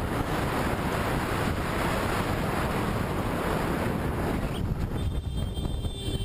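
Steady rush of wind buffeting the microphone of a motorcycle's onboard camera while riding at speed.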